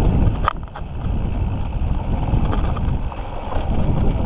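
Wind buffeting the microphone in a steady low rumble, over the rattle and tyre noise of a mountain bike riding a dirt trail, with a few sharp clicks.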